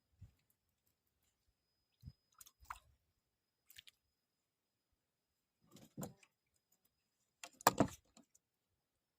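Scattered short knocks, clicks and rustles of something being handled close by, the loudest a brief cluster about eight seconds in. A faint steady high tone sits underneath.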